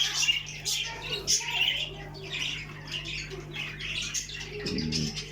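Many caged shop birds, canaries and budgerigars, chirping and squawking in short overlapping calls over a steady low hum.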